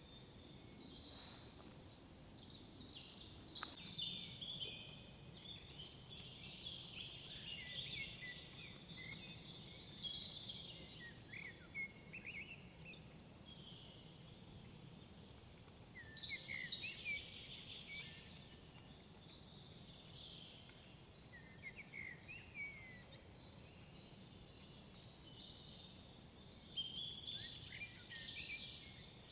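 Songbirds singing in a forest, short warbling phrases coming every few seconds, some with a high trill, over a faint steady background hush.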